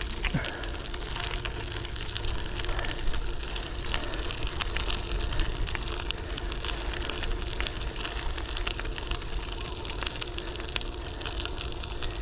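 Riding noise from a folding bike on a paved path: a steady rumble of the tyres rolling over pavement, with many small clicks and rattles. Low wind buffeting is muffled by a foam cover over the camera's microphone.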